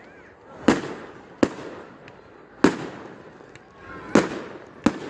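Fireworks going off: five sharp bangs at irregular intervals, a few preceded by a rising hiss, with a noisy crackling haze between them.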